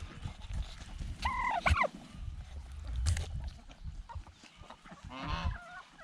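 Backyard poultry calling: two short honking calls a little over a second in and another call near the end, over a low rumble of handling noise.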